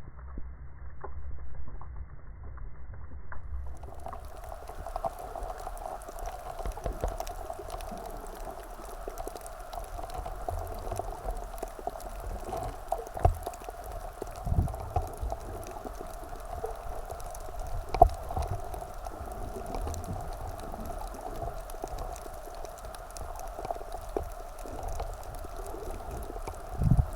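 Water sloshing and gurgling, with dull thumps and knocks every few seconds.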